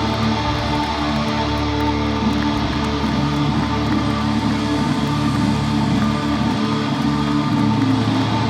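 Live hard rock band playing loudly, with electric guitars holding chords over bass.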